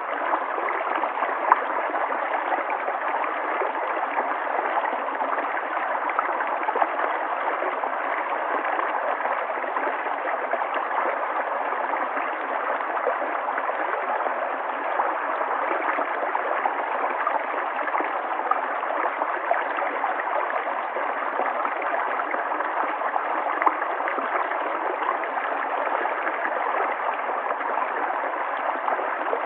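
River water flowing steadily over rocks: a continuous rushing and gurgling without pause.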